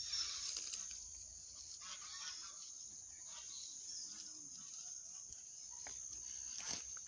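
Chickens clucking faintly, over a steady high-pitched hum.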